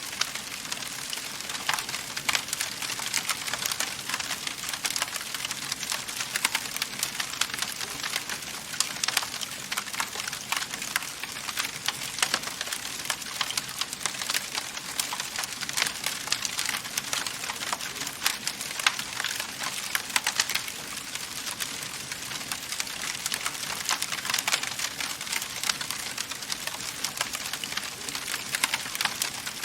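Wood fire in a fireplace crackling steadily, with a dense stream of small pops and snaps and frequent sharper cracks over a soft hiss.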